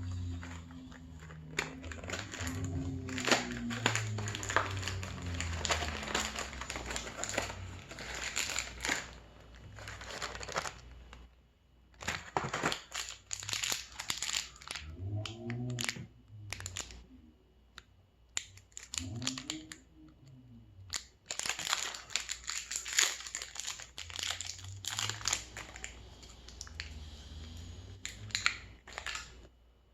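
Close-up crinkling and crumpling, with some tearing, in three long stretches broken by quieter pauses, alongside eating sounds from a Krabby Patty mukbang.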